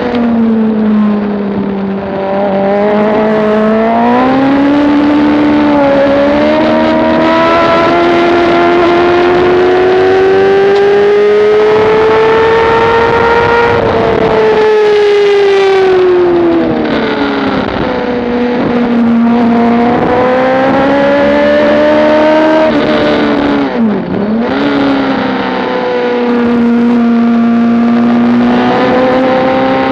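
Motorcycle engine at racing speed, heard from on board: its pitch climbs through a long pull in one gear, drops away about halfway through under braking, rises again, dips sharply in a quick series of downshifts a little after two-thirds of the way in, then pulls back up, with wind rushing throughout.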